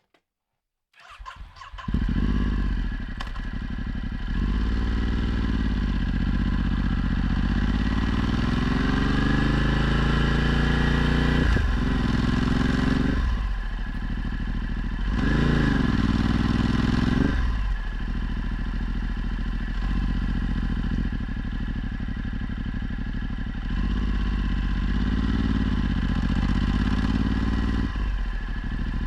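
Ducati Multistrada 1260's Testastretta V-twin through a Termignoni exhaust, starting about a second in. The revs climb and drop again and again, with one long climb over several seconds and short breaks, as the bike accelerates and eases off.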